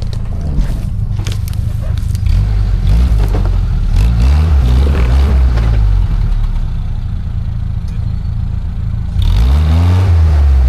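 Off-road 4x4's engine revving as it crawls through a steep hole, rising in revs about three seconds in and again near the end, with clattering and scraping from the vehicle.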